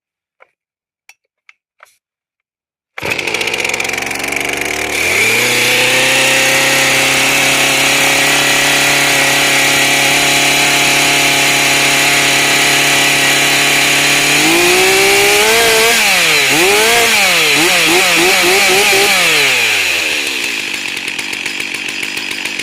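Stihl MS 362 two-stroke chainsaw cold-starting: after a few faint ticks it fires and catches about three seconds in, then runs at a steady fast idle. Later it revs up and down several times, then drops to a lower, quieter idle near the end.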